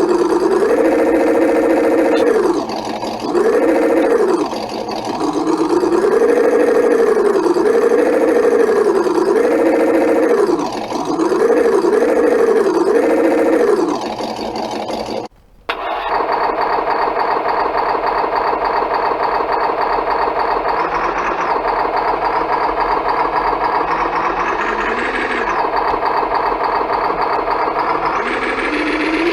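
RC engine sound module playing simulated engine sounds through its small speaker, muffled. The engine is revved up and down about seven times, cuts out briefly about halfway through, then a different engine sound idles steadily with small revs near the end.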